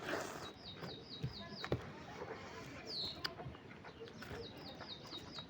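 A bird singing a quick run of about eight identical high chirps, twice, with a single downward-sliding call between the runs. Eating sounds with small clicks sit underneath.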